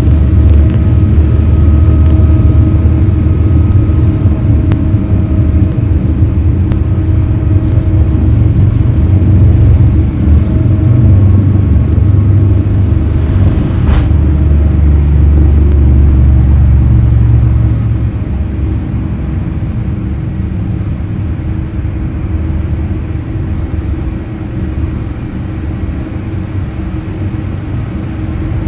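Boeing 787-8 airliner heard from inside the cabin: a loud, steady low rumble that drops markedly about two-thirds of the way through, leaving a quieter steady drone.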